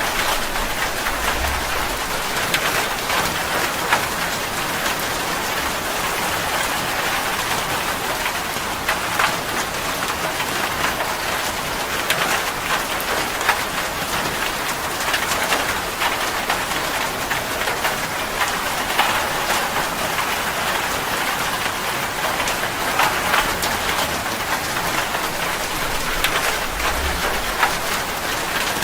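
Steady rain falling on a surface, a dense even hiss with many individual drops ticking through it. A brief low rumble comes about a second and a half in and again near the end.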